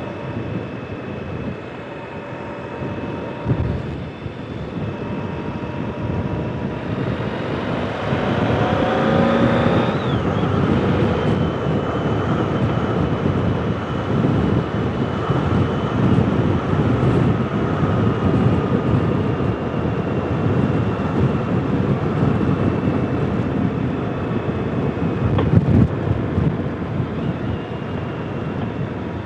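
Motorcycle engine and wind rush heard through a helmet-mounted intercom microphone while riding. The engine pitch climbs for a few seconds under acceleration, drops sharply about ten seconds in at a gear change, then holds steady at cruising speed under the wind noise.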